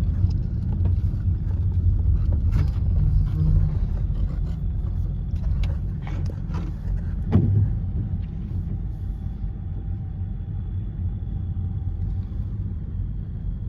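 Car driving on a rain-wet road: a steady low road rumble with scattered clicks, a sharper thump about seven seconds in, and a faint steady whine in the second half.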